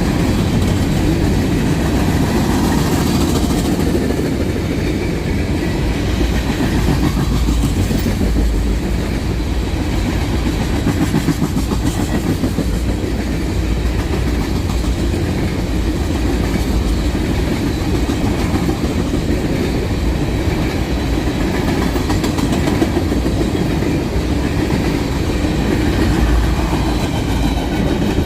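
A CSX freight train's cars rolling past at speed, a steady heavy rumble of steel wheels on rail with a clickety-clack over the joints.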